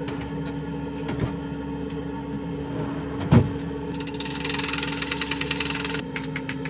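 A van's engine running steadily with a constant hum. There is a single thump about three seconds in, followed by a couple of seconds of fast rattling.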